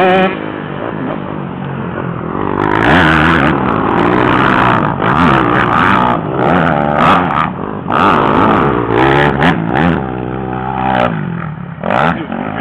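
Honda CR 125 motocross bike's two-stroke single-cylinder engine revving hard, its pitch climbing and dropping many times as the throttle is opened and shut. It dips briefly near the end, then picks up again.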